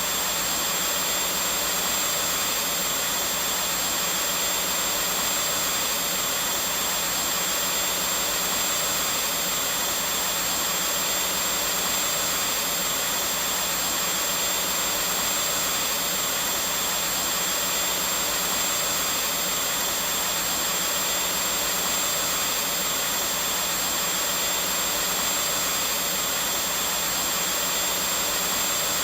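Vacuum cleaner running steadily, an unchanging whooshing hiss with a faint high whine.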